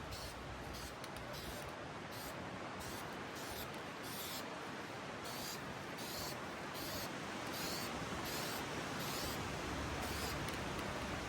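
Aerosol can of scratch filler primer spraying in a series of short hisses over a steady background hiss.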